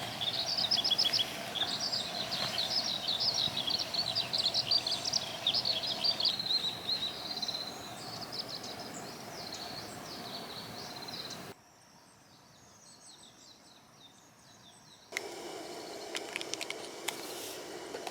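Songbirds twittering in quick, overlapping chirps over a steady low drone. About halfway through the sound cuts to fainter, scattered bird calls. Near the end come crisp clicks and rustling.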